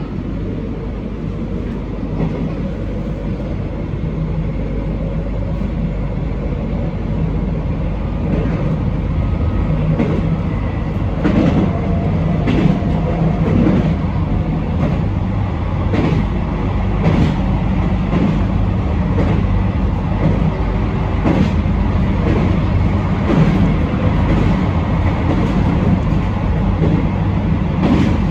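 Train running along the line, heard from on board: a steady rumble that grows slowly louder as it picks up speed. From about a third of the way in, the wheels clack over rail joints about once a second.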